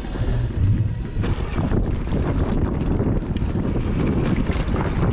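Wind rumbling over an action-camera microphone while a mountain bike rides a rough trail, with a steady clatter of small knocks and rattles.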